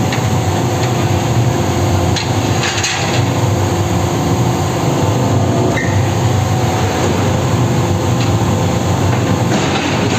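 Railway wagons rolling along the track close by: a steady low rumble with a few scattered metallic knocks.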